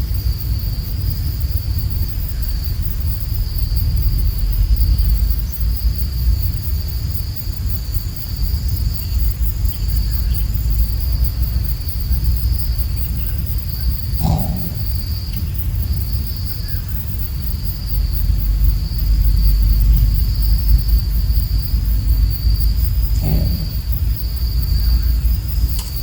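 Steady high-pitched insect drone, like crickets or cicadas, over a low rumble of wind on the microphone. Two short, low calls or knocks come about halfway through and again near the end.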